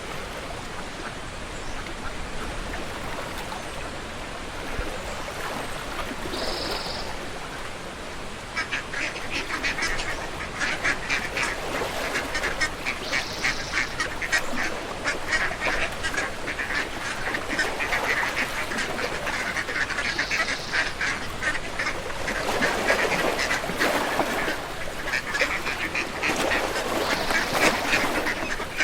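Ducks quacking, growing about eight seconds in into a dense, rapid chatter of many calls at once. A short high note recurs about every seven seconds.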